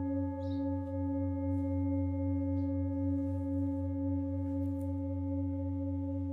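Singing bowl ringing with a steady, sustained hum of several tones together, pulsing slightly, with a few faint bird chirps now and then.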